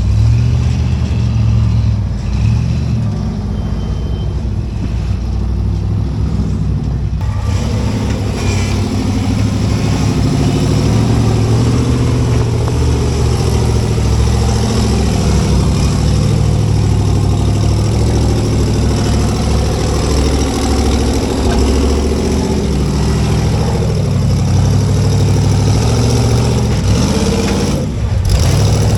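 Off-road rock crawler's engine running under load, its revs rising and falling as the rig works over the rocks.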